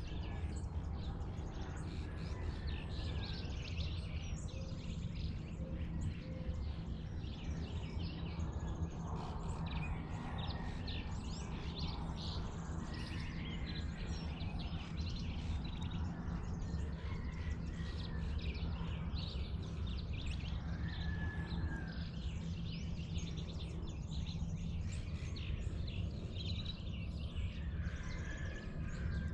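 Dawn chorus outdoors: many birds chirping and calling throughout, with a few short whistled notes, over a steady low rumble.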